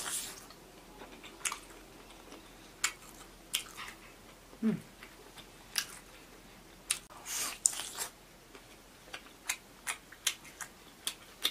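A person biting into and chewing pan-fried steak, with short, wet mouth clicks and smacks coming irregularly.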